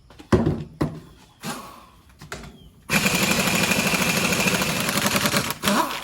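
A few knocks, then an impact gun hammering rapidly for about three seconds as it runs a bolt in to cut its threads, with a short final burst near the end.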